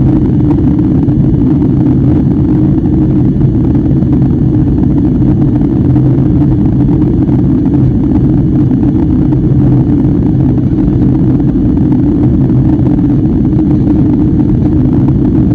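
Airliner cabin noise: the steady low drone of the jet engines and airflow heard from inside the cabin, holding even with no change in pitch or level.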